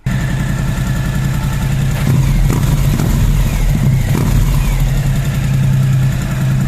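Suzuki V-Strom 1050XT's V-twin engine running at idle through an aftermarket Dominator exhaust, with a few short throttle blips between about two and four and a half seconds in.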